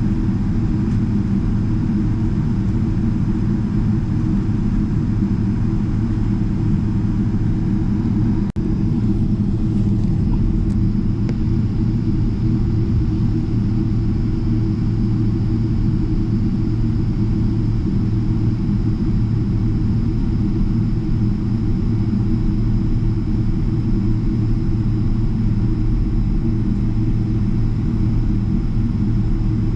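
Steady low rumble inside the cabin of a Boeing 777-300ER taxiing, with a faint steady high whine above it.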